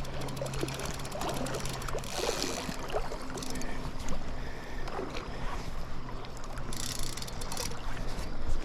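River water splashing and lapping around a small inflatable raft, with scattered small knocks and two brief louder rushes of splashing.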